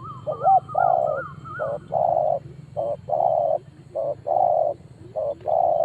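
Spotted dove cooing its song in repeated short-then-long coos, about four pairs, played as a lure call to draw wild doves into a fight. A steady low hum runs underneath.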